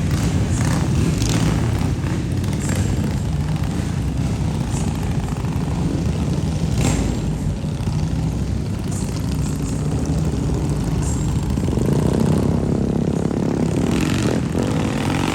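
Street traffic: a vehicle engine running close by, a steady low rumble with a few short clicks, changing in tone near the end.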